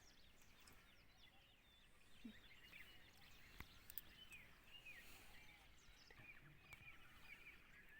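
Faint chorus of small birds chirping in the forest, many short quick calls overlapping, with a single sharp click about three and a half seconds in.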